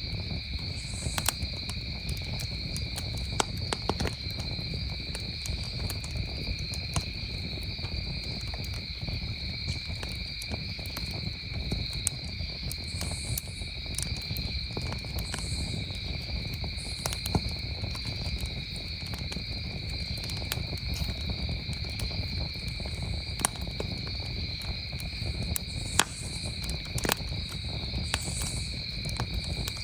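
Wood campfire crackling with scattered sharp pops over a steady chorus of crickets chirring at a high, even pitch.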